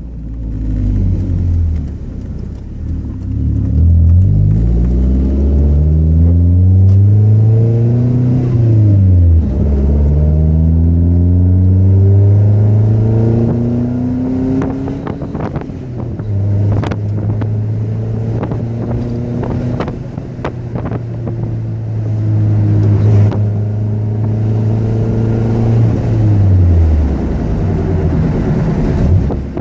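Car engine and exhaust pulling through the revs: the pitch climbs, drops suddenly about nine seconds in, climbs again, then holds steady for about ten seconds before falling away near the end. A few sharp clicks sound through the middle.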